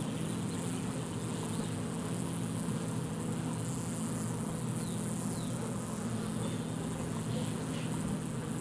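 A winter cluster of honey bees humming in a steady low drone, made as the bees shiver their flight muscles to keep the cluster warm.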